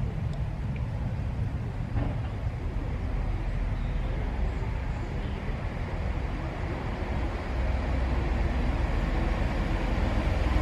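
Chiltern Railways diesel train, a steady low rumble with a few faint clicks, growing a little louder near the end.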